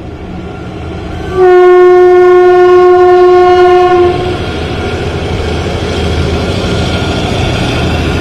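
Kalka–Shimla narrow-gauge toy train sounding one long, steady horn blast of nearly three seconds, over the rumble of the train drawing closer. The running noise keeps growing louder after the horn stops.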